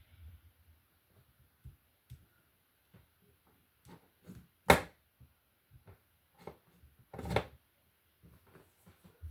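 Plastic Lego pieces being handled and snapped together: scattered small clicks and knocks, with a sharp loud click just under five seconds in and a short cluster of rattling clicks a little after seven seconds.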